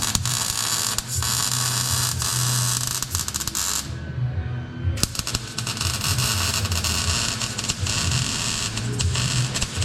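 MIG welder laying beads on stainless steel exhaust tubing: a steady crackling hiss in two long runs, stopping for about a second near the middle.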